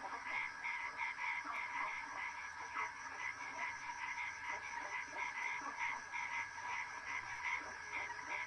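A continuous chorus of short repeated animal calls, several a second, over a steady background of outdoor ambience.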